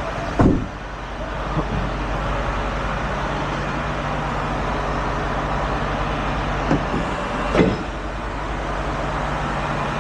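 Heavy truck's diesel engine idling steadily, with a few brief sharp sounds about half a second in and twice near seven seconds.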